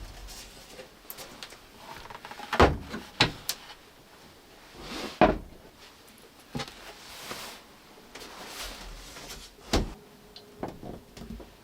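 Handling sounds in a small room: four sharp knocks and thumps, with softer rubbing and rustling between them, as a door or wooden fittings are moved.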